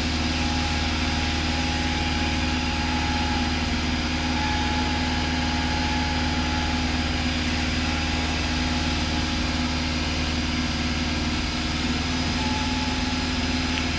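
Steady cabin drone of a Cessna 172's piston engine and propeller in cruise, with a faint thin tone that comes and goes over it.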